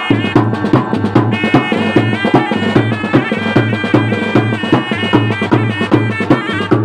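Traditional Indian festival procession music: drums beating a fast, even rhythm under a sustained reedy wind melody.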